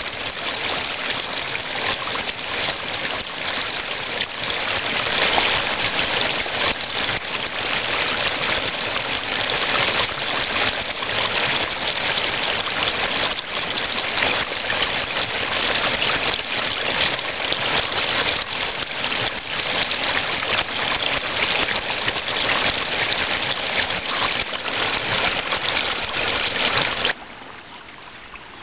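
Small waterfall of spring meltwater rushing steadily down a ravine. The sound drops away abruptly near the end.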